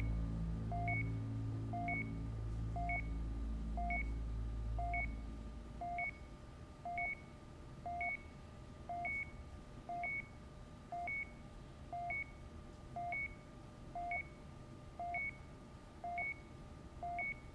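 Medical patient monitor beeping steadily: a lower tone followed by a higher one, repeating about once a second. Low background music fades out in the first five seconds.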